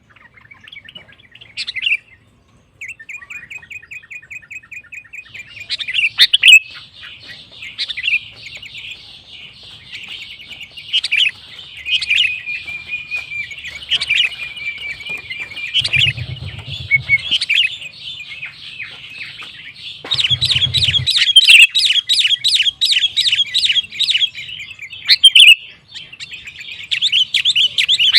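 Sooty-headed bulbul (kutilang) singing vigorously: a short run of rapid, evenly repeated notes about three seconds in, then continuous chattering song full of fast trills, loudest in the second half.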